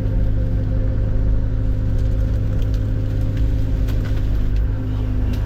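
Engine of a compact machine ("the Mini") running steadily at a constant speed, with a few faint clicks.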